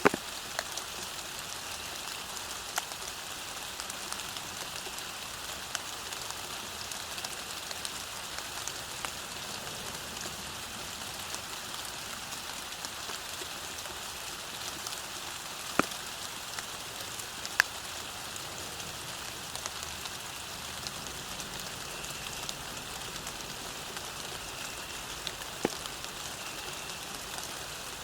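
Steady rain falling on the ground, an even hiss with scattered sharp drip clicks, a few louder drops standing out now and then.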